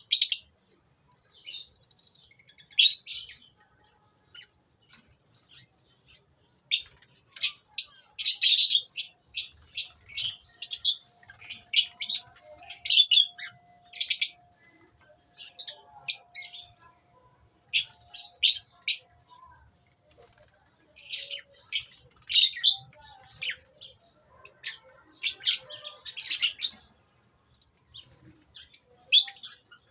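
Lovebirds in a colony calling: clusters of short, shrill chirps from several birds, with quiet spells of a couple of seconds between bursts.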